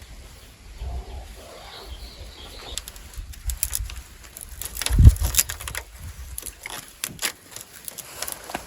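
Rustling and scattered light clicks, with one heavy thump about five seconds in, over a low wind rumble on the microphone.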